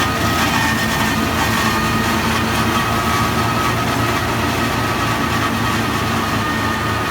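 Disc-type forage harvester running steadily: a continuous mechanical drone with a constant higher whine over it.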